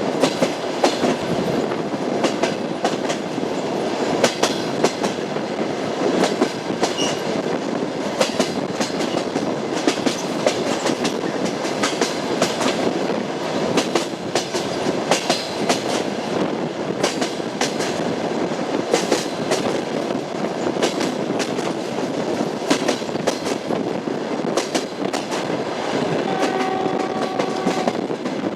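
Train wheels running over rail joints: a steady rumble with a constant clickety-clack of knocks. A short steady tone sounds near the end.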